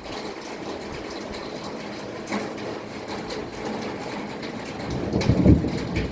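Steady rain falling, with a low rumble of thunder building up about two thirds of the way in and growing louder near the end.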